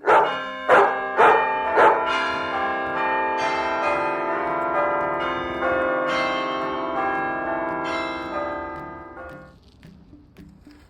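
Bell chimes: four struck notes in quick succession, then a full ringing chord that fades slowly over several seconds.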